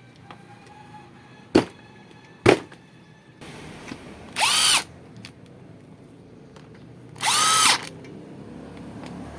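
Ozito RHG-550K rotary hammer drill, freshly reassembled, run in two short bursts, its motor spinning up and winding down each time. Two sharp clicks come before the first run.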